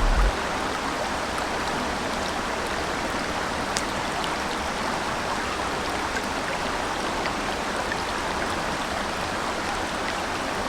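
A river flowing steadily, a constant rushing of water, with one faint tick about four seconds in.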